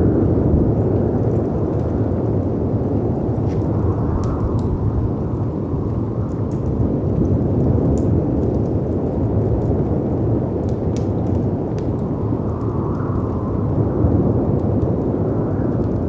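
Steady deep noise of wind and sea waves that swells and eases now and then, with scattered sharp pops and crackles of a wood fire.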